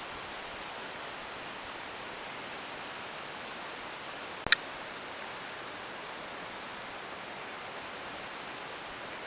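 Steady hiss with no other sound, apart from a single sharp click about halfway through.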